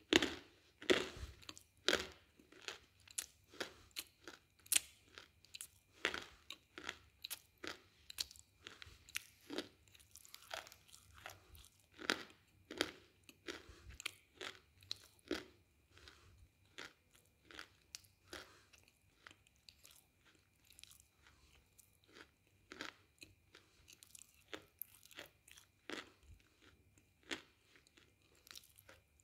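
A person chewing hard, brittle pieces close to the microphone: a run of sharp crunches, about one to two a second, loudest in the first dozen seconds and softer and more spaced out toward the end.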